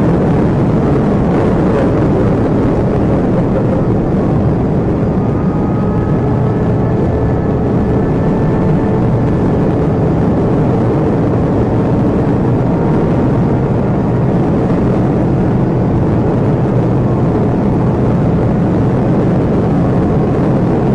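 A police cruiser driving fast in pursuit: a loud, steady rush of engine and road noise, with faint high tones drifting in and out in the middle.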